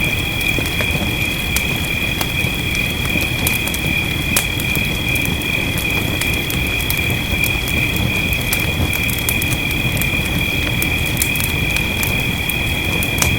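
Wood fire crackling in a fireplace: scattered sharp pops and snaps over a steady low rumble, with rain mixed in. A steady high-pitched ringing tone runs underneath.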